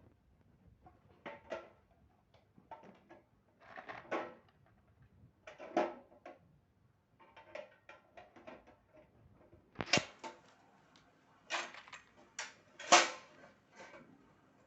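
Irregular clicks, taps and knocks of hard sewing-machine parts being handled and fitted, with two sharper knocks about ten and thirteen seconds in.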